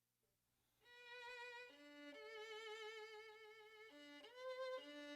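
Solo violin playing slow, held notes with vibrato, starting about a second in, with a slide up into a higher note near the end.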